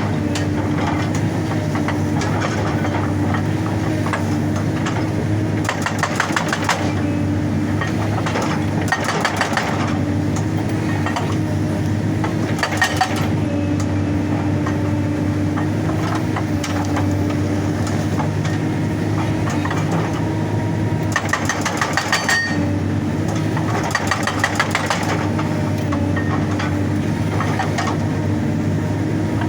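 Excavator diesel engine running steadily, broken by repeated bursts of rapid hammering from the hydraulic rock breaker, each burst lasting about a second.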